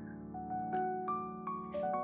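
Slow, gentle background piano music, single notes struck one after another and left ringing.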